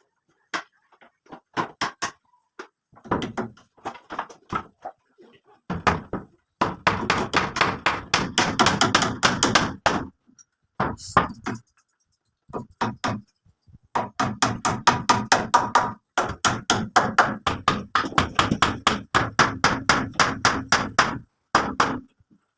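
Rapid hammering, several sharp blows a second in runs of a few seconds with short pauses between.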